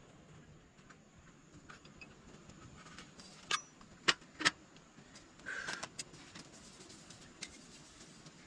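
A few sharp clinks and knocks from cooking utensils being handled, three close together in the middle, then a short rustle about a second later.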